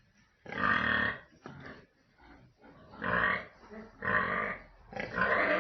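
Pigs in a pen calling loudly, four calls of about half a second each.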